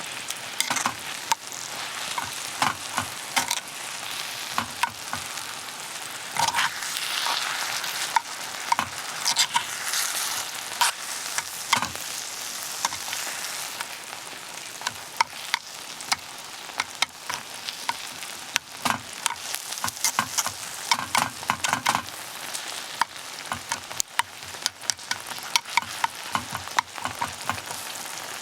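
Monjayaki frying on a hot iron griddle: a steady sizzle with many irregular clicks and scrapes of metal utensils working the food against the plate.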